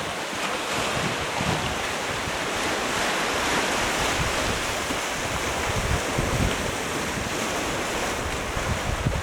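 Sea waves washing onto the shore, a steady rushing noise, with wind buffeting the microphone in an uneven low rumble.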